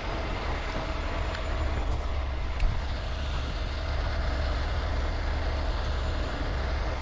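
Heavy tow truck's diesel engine running steadily with a low rumble, with a single sharp knock about two and a half seconds in.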